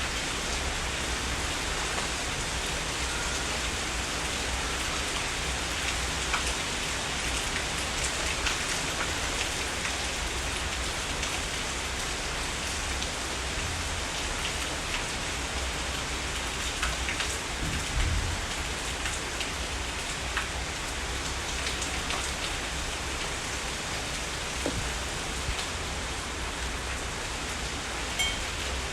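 Heavy rain falling steadily, with scattered sharper drops ticking on surfaces.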